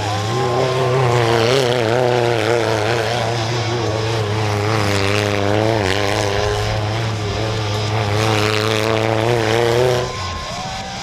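Mini monster truck engine running and revving, its pitch wavering up and down with the throttle, then stopping abruptly about ten seconds in.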